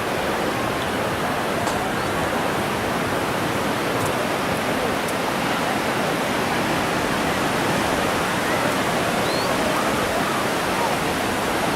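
Steady rushing roar of ocean surf breaking along the beach, an even wash of noise that holds at one level.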